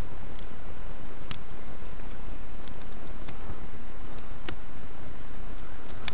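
A cat chewing a rodent: irregular sharp clicks and crunches from its teeth on the bones, scattered every half second to a second, over a steady low rumble.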